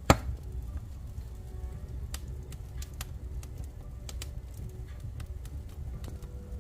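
Wood fire burning in a fireplace, crackling with scattered irregular pops over a low steady rumble, one loud sharp pop just after the start.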